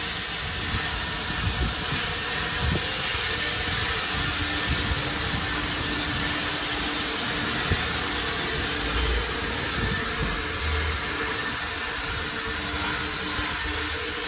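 Water spraying in a steady hiss while a car is washed, with a faint steady hum and scattered low thumps underneath.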